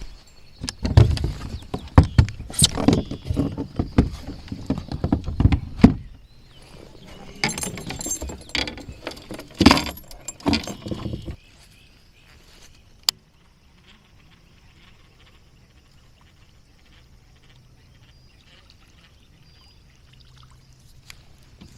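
Knocking, rattling and splashing around a fishing kayak for about eleven seconds, then quiet with a faint low hum and a single sharp click.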